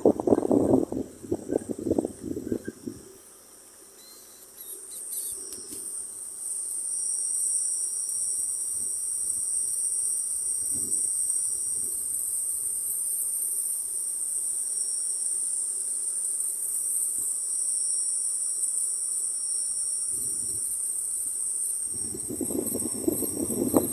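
Insects chirring in a steady, continuous high-pitched drone that sets in about five seconds in. A loud low rushing noise fades out over the first few seconds and returns near the end.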